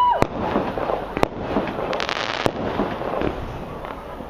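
Consumer fireworks going off: a steady whistle cuts off just at the start, then sharp bangs about a quarter-second, a second and a quarter, and two and a half seconds in, with a burst of crackling around two seconds in.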